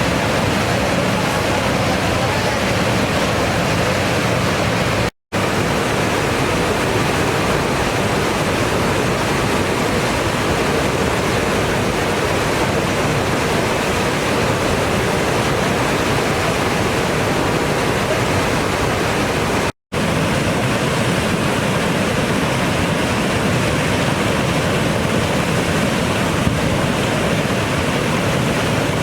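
A river in flood rushing, a loud, dense, unbroken noise of fast water. It cuts out for an instant twice, about five and twenty seconds in.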